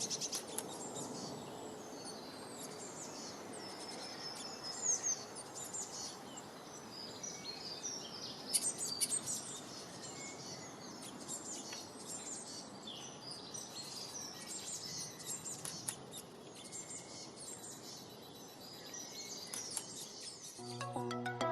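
Several small birds chirping and singing, many short high calls overlapping above a steady background hiss. Music comes in near the end.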